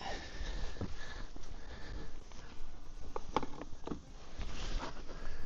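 Rustling with a few short sharp clicks of small items being handled, over a steady hiss.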